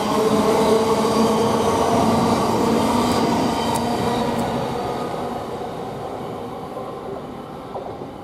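Thameslink Class 700 electric multiple unit pulling away, its traction motors giving a whine of several steady tones over the rolling noise, fading steadily as the train draws off.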